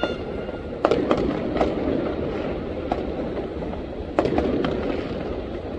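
Fireworks going off: about five sharp bangs at irregular intervals, the loudest about a second in and just after four seconds, over a steady background din.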